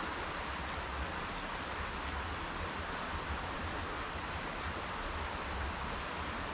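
Steady rushing of running creek water, with a low, uneven rumble of wind on the microphone.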